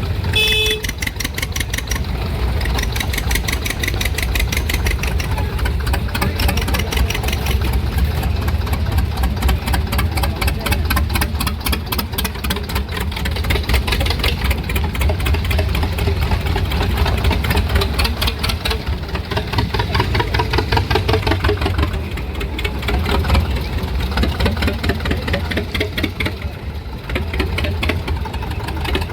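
Old engine running steadily, its rapid, even firing pulses over a low rumble, with a brief high-pitched tone about half a second in.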